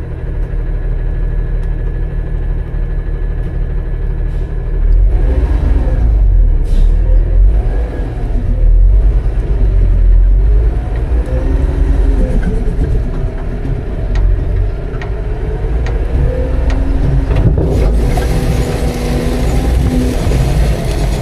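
Autocar-Heil Freedom front-load garbage truck's engine idling, then revving up about five seconds in to drive the hydraulics, with a rising and falling whine and several metal knocks and bangs as it works.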